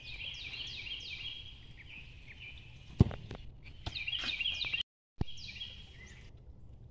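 Birds chirping in repeated falling notes, with one sharp thump about three seconds in. The sound drops out completely for a moment near five seconds.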